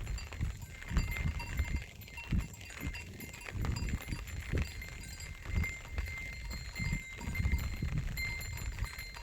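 Flock of sheep grazing, with a small bell on one of the animals ringing faintly now and then over a low, uneven rumbling.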